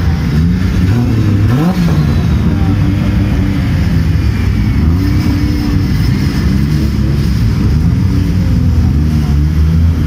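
Modified drift cars driving slowly past one after another, their loud engines running with throttle blips that rise and fall in pitch, a sharp one about two seconds in.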